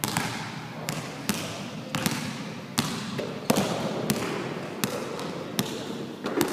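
Basketballs bouncing on a hard sports-hall floor: about ten sharp, irregular knocks that echo in the hall, from several players dribbling in for layups.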